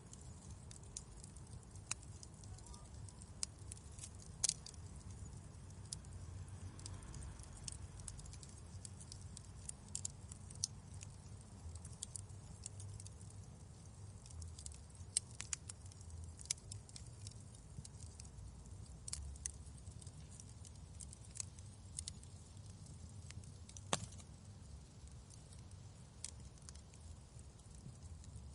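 Wood fire crackling: irregular small snaps and a few sharper pops over a steady low rumble.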